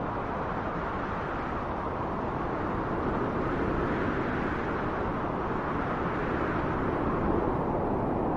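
Wind blowing steadily: an even, low-pitched rush that swells a little a few seconds in and again near the end.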